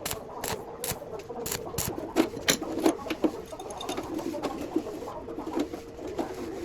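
Sharp taps repeating about three times a second, becoming fainter and irregular after about three seconds.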